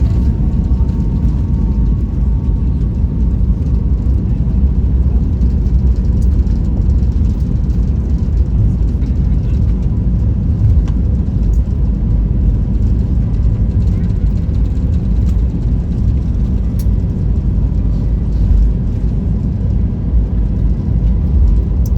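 Steady low rumble of an Airbus A320's engines and airflow, heard from inside the cabin.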